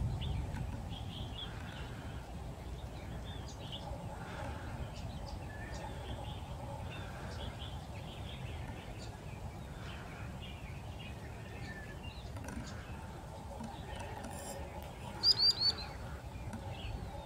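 Wetland bird calls: scattered short chirps and a soft call repeated every second or so, over a steady low rumble of wind and ambient noise. About fifteen seconds in, a loud quick run of three high chirps.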